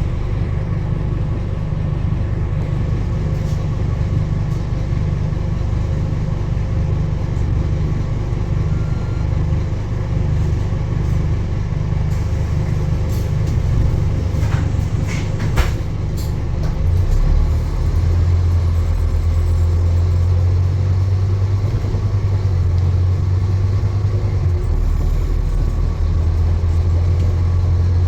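Steady low rumble of a moving vehicle, with a few sharp clicks about halfway through and a deeper drone building from about two-thirds of the way in.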